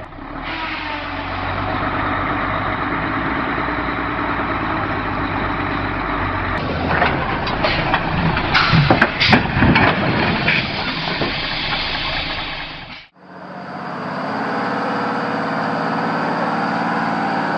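Heavy truck engine running steadily, with a string of sharp knocks and clanks in the middle. About 13 s in, the sound cuts abruptly to another truck engine running steadily, its note plainly pitched.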